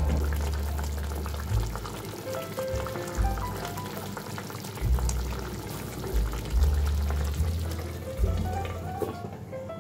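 Background music with deep bass notes and a light melody, over the steady hiss of food sizzling in hot oil in a pan; the sizzling drops away near the end.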